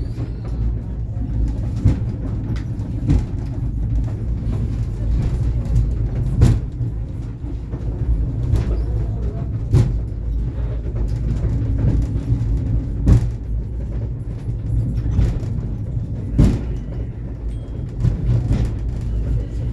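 Tbilisi's Mtatsminda funicular car climbing, heard from inside the car: a steady low rumble and hum with a sharp click or knock every second or two as the wheels run over the track.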